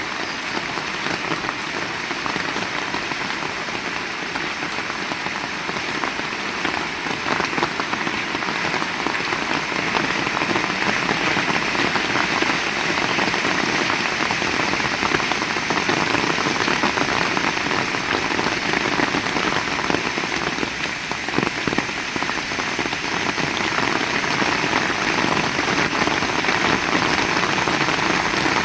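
Heavy rain falling steadily in a dense, even patter, growing a little louder about a third of the way in.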